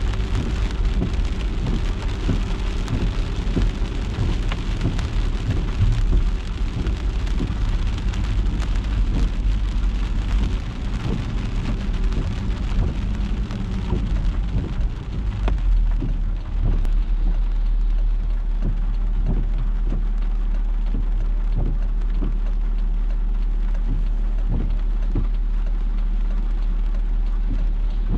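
Rain on a moving car: many separate drops striking the body and glass over a steady low rumble of the car driving. About halfway in the drop hits thin out and an even low hum takes over.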